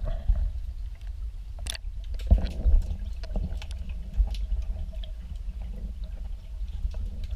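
Water lapping and gurgling against a kayak hull over a steady low rumble, with a few sharp knocks and clicks.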